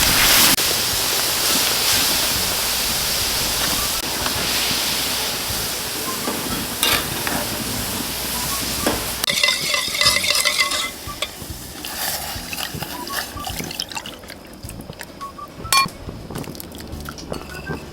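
Spicy pork (jeyuk bokkeum) sizzling as it is stir-fried in a pan over a high wood fire, with a utensil stirring and clinking against the pan. The sizzle drops off about eleven seconds in, leaving quieter scattered clinks.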